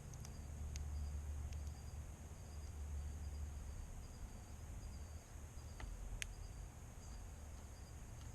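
Evening insects, crickets, chirping in a steady pulsing rhythm with a thin high steady hum above them, over a low outdoor rumble. A few sharp clicks stand out, the clearest about six seconds in.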